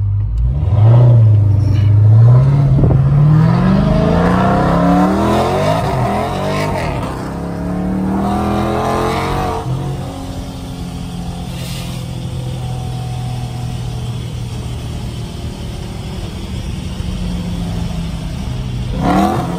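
Car engine revving up under acceleration, heard from inside the cabin: its pitch climbs for several seconds, then eases off about ten seconds in and settles to a steady low drone.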